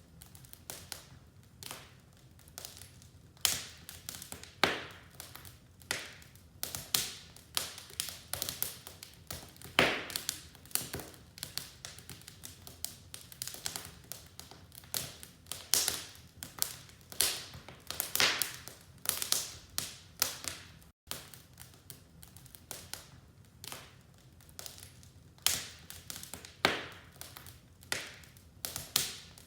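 Wood fire crackling in a fireplace: irregular sharp pops and snaps, sometimes several a second, over a faint low rush of the flames.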